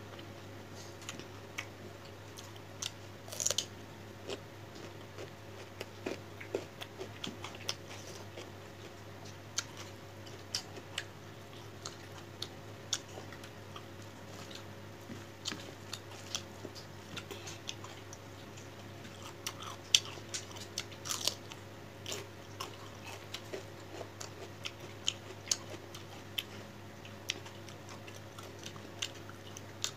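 A person eating close to the microphone: chewing with irregular mouth clicks and smacks, over a steady low hum.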